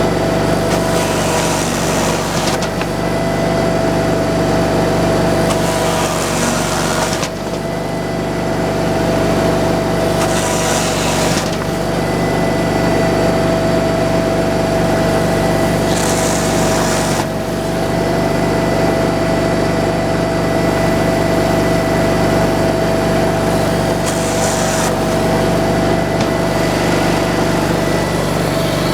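Sawmill engine running steadily under a constant high whine, with a hiss that comes and goes every several seconds.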